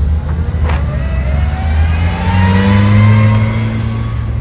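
Rally car engine accelerating, its pitch climbing steadily for about three seconds and loudest about three seconds in, then levelling off. A couple of short knocks come early on.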